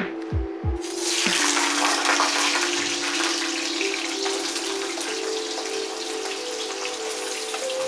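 Raw potato wedges dropped into hot oil in a kadai, setting off a loud sizzle about a second in that eases to a steady frying hiss. Background music with held tones plays underneath.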